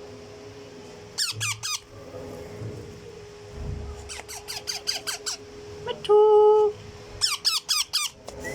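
Baby parrots making rapid, high, squeaky calls in three bursts. About six seconds in, a loud steady tone sounds for under a second.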